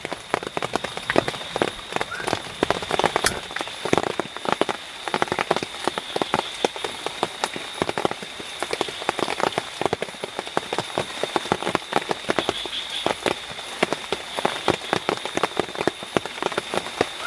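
Rain falling on the shelter: a dense, irregular patter of sharp drips and drops, with a steady high thin tone running underneath.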